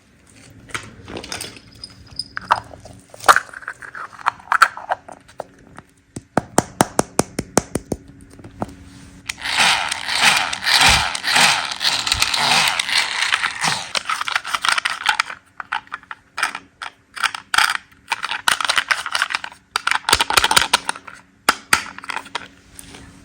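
Candy and slime being cut and mixed by hand: sharp clicks and crackles, a quick run of clicks, then a long dense rattling stretch in the middle and shorter bursts near the end.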